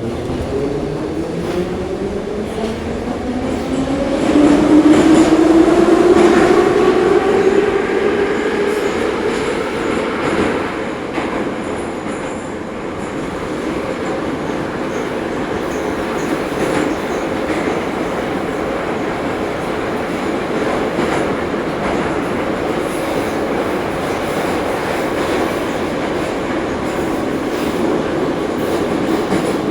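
Ezh3 metro car running through a tunnel. The traction motors whine and climb in pitch over the first several seconds as the train picks up speed, loudest around five seconds in, then settle into a steady rumble of wheels on rail.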